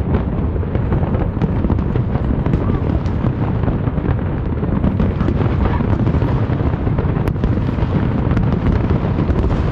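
Large fireworks display: a dense, unbroken run of booms with many sharp cracks among them.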